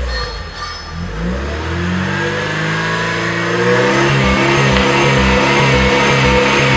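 Mercedes-Benz W210 E-Class engine and exhaust being revved: the revs drop near the start, climb again from about a second in, then hold high and steady, louder over the last few seconds.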